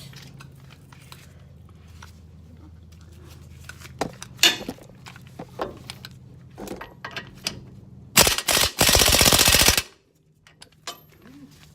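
Impact wrench hammering in a fast rattling burst for just under two seconds, breaking loose a front brake caliper bolt on a Ford F-150. Before it come scattered clicks and knocks of tools and the socket going onto the bolt.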